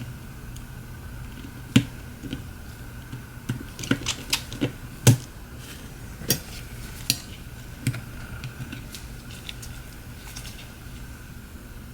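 Irregular small, sharp clicks and taps of hand tools and phone parts being handled on a work surface while a Samsung Galaxy S7 edge is taken apart, the loudest about two and five seconds in. A steady low hum runs underneath.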